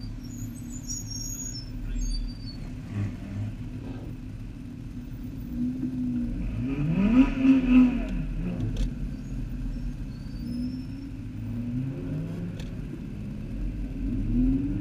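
Car engine idling at low revs, heard from inside the cabin, with one brief rev up and back down about seven seconds in.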